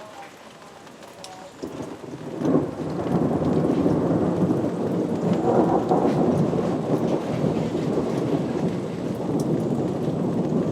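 Thunder following a lightning flash: rain falls steadily, then about two seconds in a long, loud rumble of thunder starts and rolls on over the rain.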